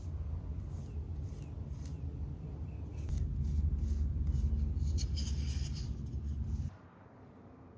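Light scratchy hand rubbing on a wooden hand-plane handle: sanding or buffing between finish coats. It stops abruptly a little before the end.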